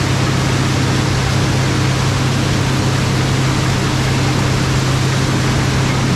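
Case IH 16-series Axial-Flow combine running steadily under harvesting load: a constant engine drone with the rushing noise of the threshing and separating machinery.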